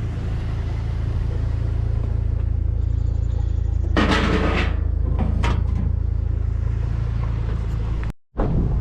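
Pickup truck driving, a steady low engine and road rumble heard from inside the cab, with a short burst of rattling noise about four seconds in.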